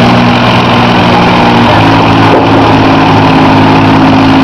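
John Deere 4000 tractor engine running hard under load in a pull. The loud, steady note steps up slightly in pitch about halfway through.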